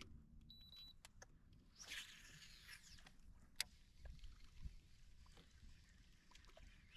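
Faint clicks, light knocks and rustling of hands handling gear in a kayak, with one sharper click about three and a half seconds in and a brief faint high tone near the start.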